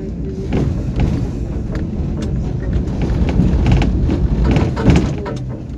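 Tram running along the rails, heard from inside the car: a steady low rumble with scattered clanks and knocks that come thicker in the second half, the loudest a little before the end.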